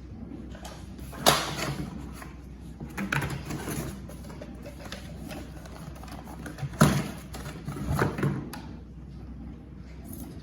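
Handling noises while unboxing: a sharp plastic-sounding knock about a second in, rustling, then two more knocks about a second apart in the second half. The vacuum's motor is not running.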